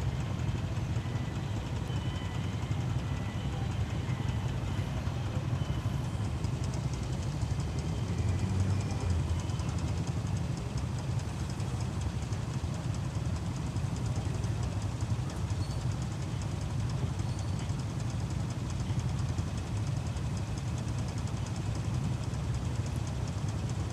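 Motorcycle on the move along a highway: a steady, unbroken run of engine and road noise.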